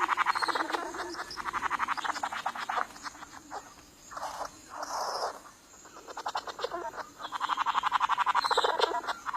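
Male bowerbird giving a rapid, rattling churr in his courtship display, in two long bouts with a few harsher, hissing notes in between.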